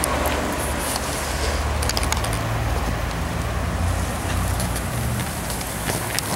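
Light rain falling outdoors, with scattered small crackles and a steady low rumble underneath.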